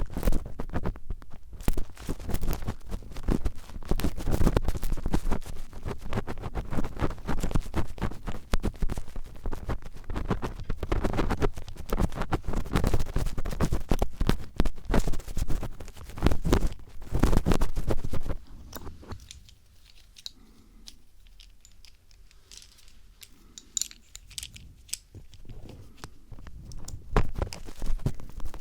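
Phillips screwdriver scratching and scraping against a microphone as mock ear cleaning, a dense run of close scratching clicks. About two-thirds of the way in it drops to a few faint ticks, and the scratching comes back near the end.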